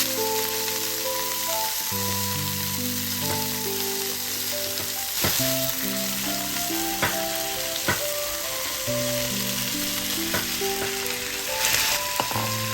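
Food sizzling as it fries in a hot pan, a steady hiss with a few sharp clinks of a utensil against the pan, about five in all. Soft melodic background music plays underneath.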